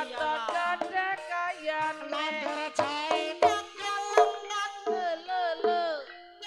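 Live ebeg accompaniment music: a wavering melodic line that slides and bends in pitch over sharp hand-drum (kendang) strokes. The music thins out briefly near the end.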